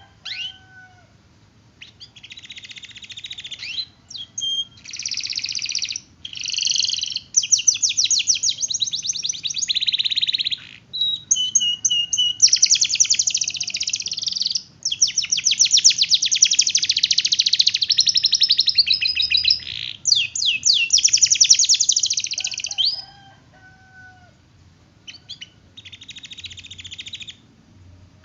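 Domestic canary in full song, long fast rolls and trills of rapidly repeated notes, phrase after phrase with brief breaks. About three-quarters of the way through it pauses, giving a few lower whistled notes, then resumes near the end.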